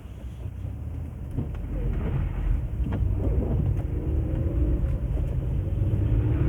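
Car engine and road rumble heard from inside the cabin, growing steadily louder as the car gets going, with a few faint clicks.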